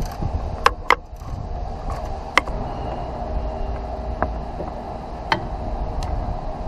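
A steady mechanical hum with several sharp clicks or taps at irregular moments.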